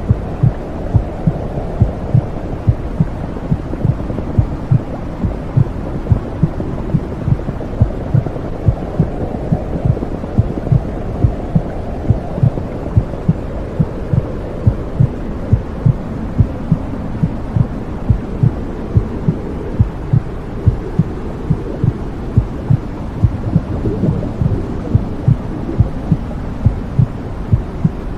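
Womb sound: a muffled heartbeat pulsing evenly, a little faster than once a second, over a steady low whooshing rumble.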